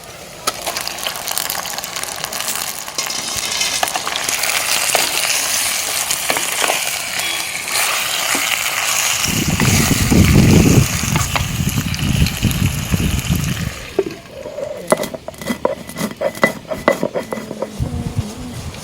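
Food sizzling as it fries in hot oil in a cooking pot, stirred, with a heavier low rumble partway through. For the last few seconds the sizzle drops away and a metal spoon knocks and clinks against the pot several times.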